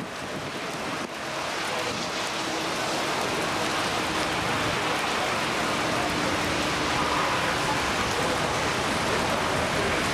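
Steady downpour of rain from a thunderstorm overhead, a dense hiss that picks up about a second in and then holds steady.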